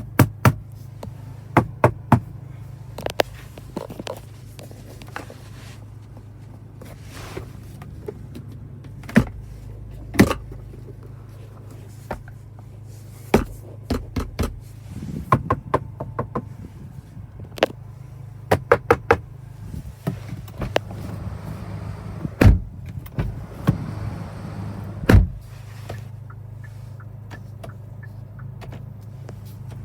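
Irregular sharp knocks and taps on a car's interior plastic trim, checking its build quality, over a steady low hum.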